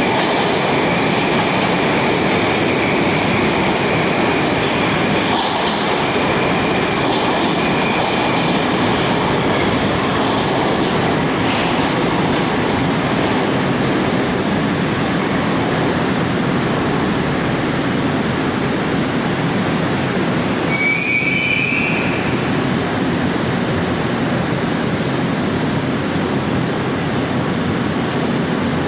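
Moscow metro train running with a loud, steady rumble of wheels on rail. A high wheel squeal holds for the first several seconds, and another brief, rising squeal comes about two-thirds of the way through.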